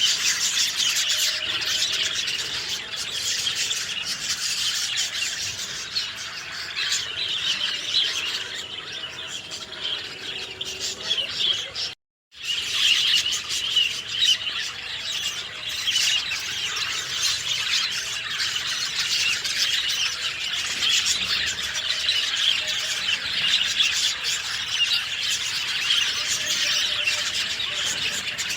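Many small birds chirping and singing at once in a dense, continuous chorus of overlapping high calls. The sound drops out to silence for a moment about twelve seconds in, then resumes.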